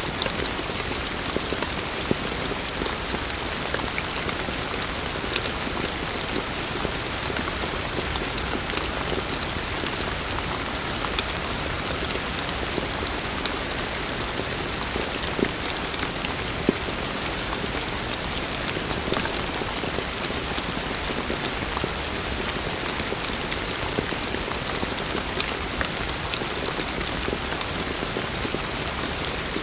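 Heavy rain falling steadily, a dense even hiss with many individual drops striking close by.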